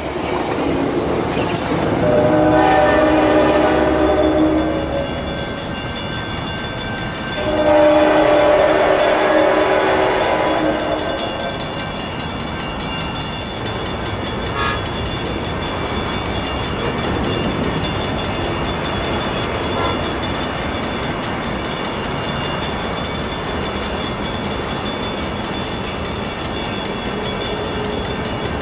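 Locomotive's K5LA five-chime air horn sounding two long blasts, the second louder, followed by the steady rolling noise of the train passing on the rails with a few wheel clicks.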